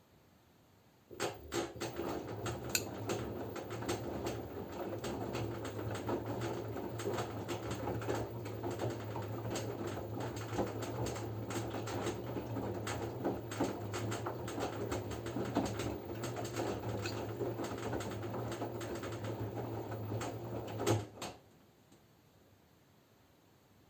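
LG F10B9LD front-loading washing machine in its wash phase: the drum starts turning about a second in and tumbles the wet laundry for about twenty seconds, a steady motor hum under dense splashing and patter. It then stops abruptly as the drum pauses.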